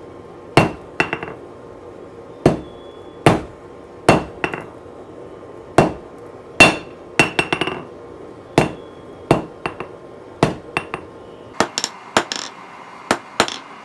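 Blacksmith's hand hammer striking hot 1/2-inch round mild steel on an anvil, drawing out a sharp point. Single blows come about once a second, some followed by quick lighter taps, each with a short metallic ring, and the strikes come closer together near the end.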